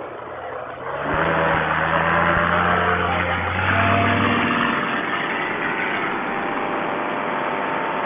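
A freshly rebuilt Vittorazi Moster 185 single-cylinder two-stroke paramotor engine and its propeller are throttled up to takeoff power. The sound rises about a second in, then runs loud and steady.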